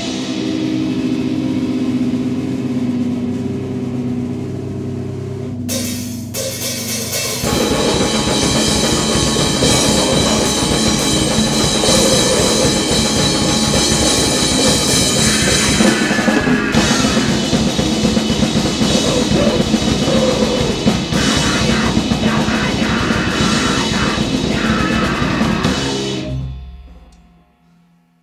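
Noise-grind band playing: drums and cymbals under heavily distorted instruments, opening on held droning notes, then a dense, full-on wall of noise from about seven seconds in that stops near the end.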